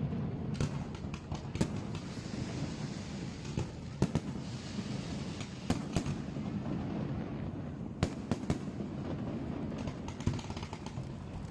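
Fireworks display going off: an irregular string of sharp bangs and pops, the biggest about four and eight seconds in, over a steady low rumble.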